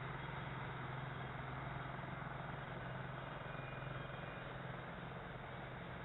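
A steady low engine hum, like a motor vehicle idling, over a constant hiss; the hum eases off near the end.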